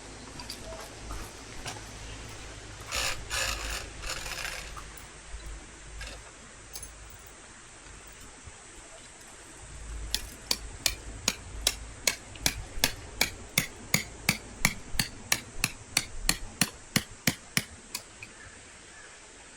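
A run of about twenty sharp hammer blows, roughly three a second, starting about ten seconds in and stopping shortly before the end, typical of driving a tent peg with a hammer. Earlier there is a brief rustle.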